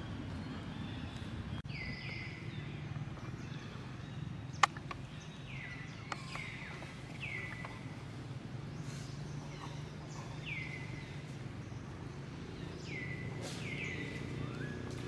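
Repeated short high calls, each sliding down in pitch and levelling off, over a steady low background rumble, with one sharp click about four and a half seconds in.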